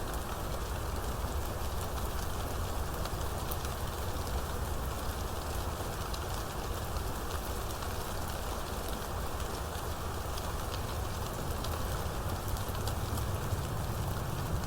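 Steady heavy rain falling, a dense hiss of drops with fine individual drop ticks and a steady low rumble underneath.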